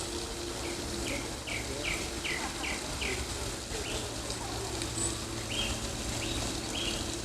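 A small bird calling a run of short, evenly spaced notes, about two and a half a second, then a few more after a pause, over a steady background hiss.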